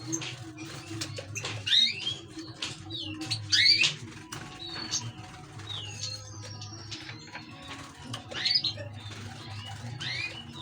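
Pet finches chirping and singing in short, sweeping calls, loudest about two seconds in, near four seconds and just past eight seconds, with scattered light clicks over a steady low hum.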